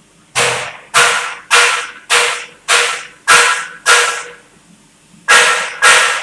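Metal being struck repeatedly, each blow ringing briefly: seven blows in a steady rhythm, a pause of about a second, then the blows resume.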